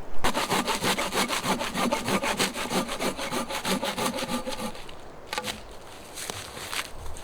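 Hand saw cutting through wood in quick, even back-and-forth strokes. The strokes trail off about five seconds in, followed by a few scattered strokes.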